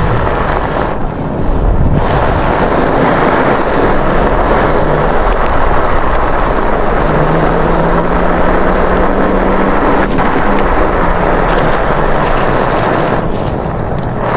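Wind buffeting the microphone, mixed with tyre and ride noise, while an electric bike is ridden over snow and ice. A low steady hum comes in for a few seconds in the middle.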